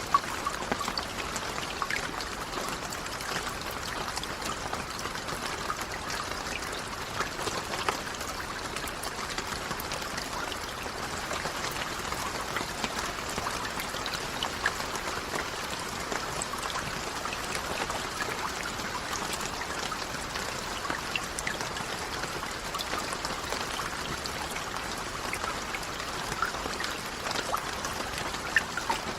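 Steady rain: a dense patter of many small drops over a continuous wash of running, trickling water.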